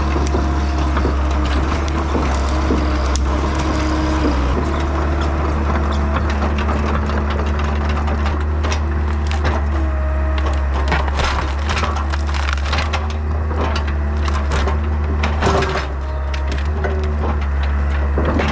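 Yanmar B50 compact excavator's diesel engine running steadily while hickory wood cracks, crunches and splinters as the tree is broken up, the snapping growing thicker about halfway through.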